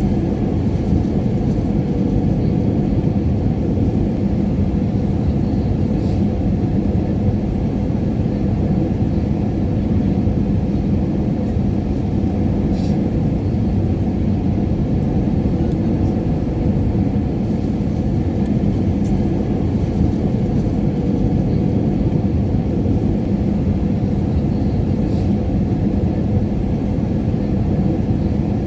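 Airliner cabin noise in cruise flight: a steady low rumble of engines and airflow with faint constant hums, unchanging throughout.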